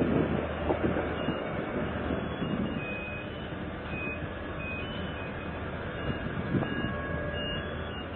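Steady low rumble and noise of a ship underway, with a constant low hum, a few thumps in the first second and faint short high squeaks.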